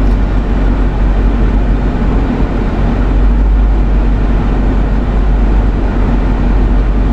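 Steady drone inside a stationary car: the engine idling with the air-conditioning blower running on high.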